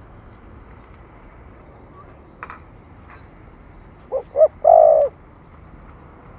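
Spotted dove cooing: two short coos and then one longer, louder coo, about four seconds in. This is the thổ thúc gù call style used as a lure call.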